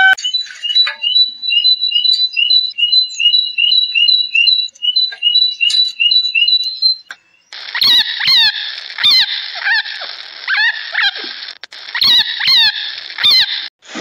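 A fast, even run of high two-note chirps, about three a second, goes on for some seven seconds. After a short gap come high squeaky calls, each dropping in pitch, about one a second, mixed with sharp clicks.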